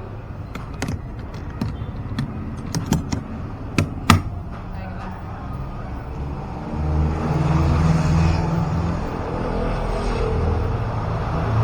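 Motorcycle engine and road noise from the rider's camera, with a string of sharp irregular clicks and knocks in the first few seconds; about seven seconds in, the engine gets louder, as if pulling away.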